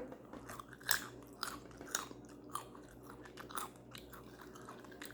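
A person chewing food with the mouth open, close to the microphone: short, moist clicks and smacks at about two a second.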